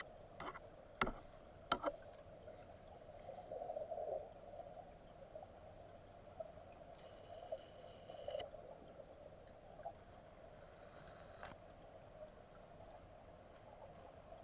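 Faint steady rush of flowing water, with a few sharp clicks in the first two seconds.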